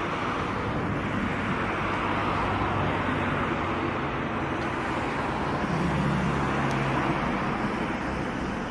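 City road traffic: a steady wash of tyre and engine noise from passing cars, swelling and easing like sea surf, with one vehicle's low engine hum coming up about six seconds in.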